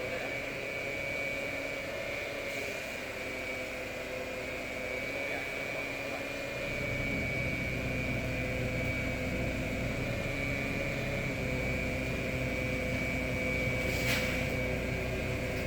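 Bombardier Flexity 2 tram running, with a steady high electrical whine and hum from its equipment; a low rumble grows louder about seven seconds in, and there is one sharp click near the end.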